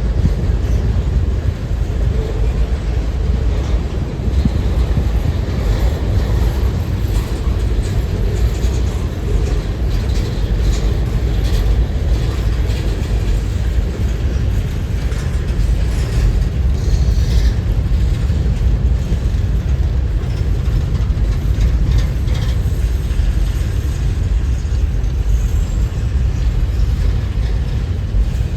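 A train rolling past, with scattered clicks and rattles from the wheels and cars, under a steady heavy rumble of strong wind buffeting the microphone.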